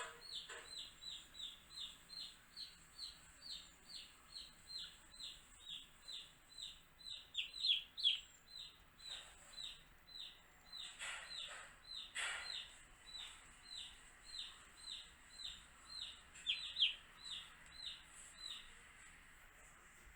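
Baby chicks peeping: a steady run of short high peeps, each sliding down in pitch, about two to three a second. Around the middle a few louder, longer calls slide down much lower. The peeping stops near the end.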